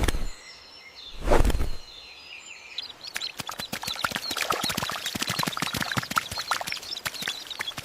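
Birds chirping and calling, which turns into a dense chatter of many short chirps about three seconds in. About a second and a half in there is a brief loud low rush.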